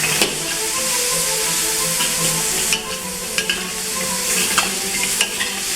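Vegetables sizzling in a hot wok as they are stir-fried, with the repeated clack and scrape of a spatula against the pan over a steady frying hiss.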